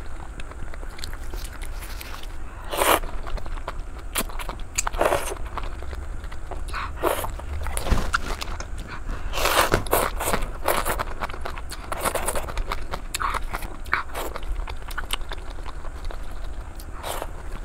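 Close-miked chewing and mouth sounds of a person eating, with many scattered wet clicks and smacks and a few louder ones.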